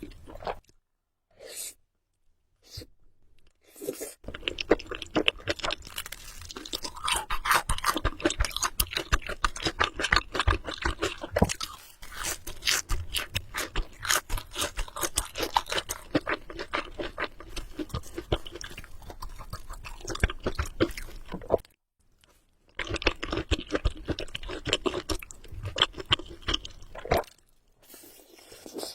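Close-miked chewing of Samyang carbonara Buldak instant noodles: a dense run of rapid small clicks and smacks. It is broken by brief pauses near the start, about three-quarters of the way through and near the end.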